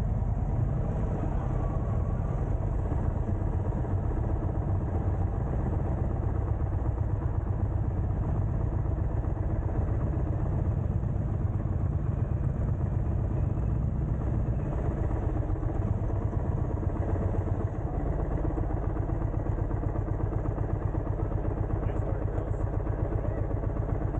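Indian motorcycle engine running steadily under way, with a fast even pulse.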